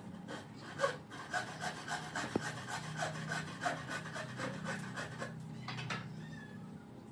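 Wood being worked with a hand tool: a run of short rubbing or scraping strokes, about three a second, that stops about six seconds in.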